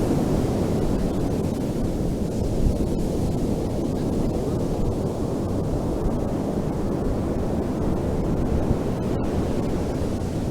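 Ocean surf washing on a beach: a steady, low rush of waves with no single crash standing out.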